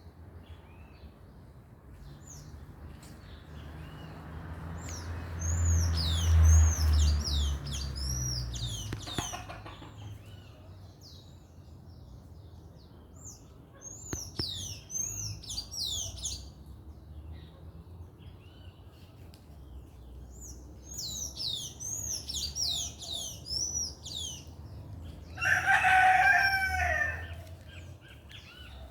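Songbirds calling in repeated runs of short, high, downward-sweeping chirps, with a rooster crowing once near the end. A low rumble swells and fades in the first third.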